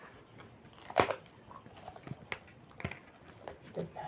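Close-up eating sounds: crisp bites and crunchy chewing, a series of short sharp crunches with the loudest about a second in.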